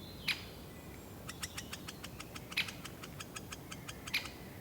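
Great spotted woodpeckers calling: three sharp single 'kik' notes, one near the start, one in the middle and one near the end. Between them runs a quick series of short high ticking notes, about six or seven a second, for roughly three seconds.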